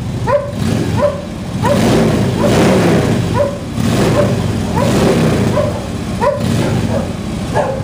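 A dog barks over and over, about two barks a second, above the steady idle of a 2011 Harley-Davidson Street Glide's V-twin running through RUSH slip-on mufflers with 2-inch baffles.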